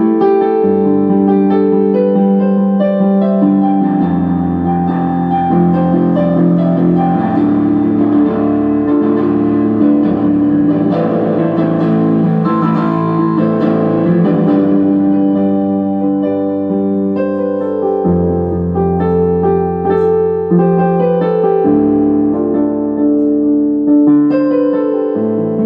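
Electronic keyboard played in a piano voice: held chords over a bass line that changes every few seconds, with a melody on top.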